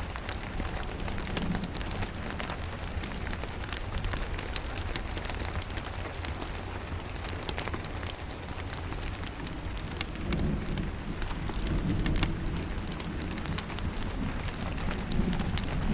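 Steady rain with many small sharp ticks, over a low rumble of distant thunder that swells about ten seconds in and again near the end.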